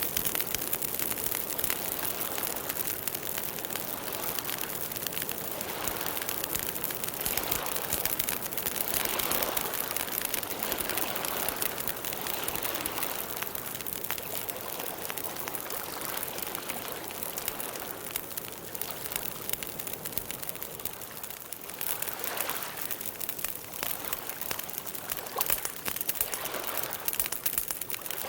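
Campfire burning, with a steady hiss and many irregular small crackles and pops of the wood.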